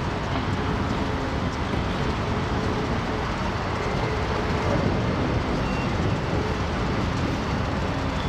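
Freight train rolling past, a steady rumble of wheels on rail with faint held ringing tones.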